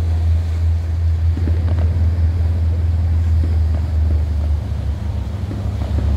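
Steady low drone of a river cruise ship's engine, with wind on the microphone; the drone shifts slightly about four and a half seconds in.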